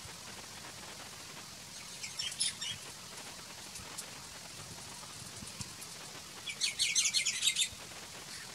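A bird gives two quick runs of high chirps, a short one about two seconds in and a longer, louder one near the end, over a faint steady hiss.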